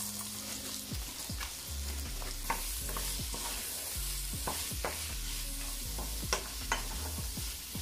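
Sliced onions and scallions sizzling in hot oil in a frying pan, stirred with a wooden spoon that scrapes and knocks against the pan in irregular clicks.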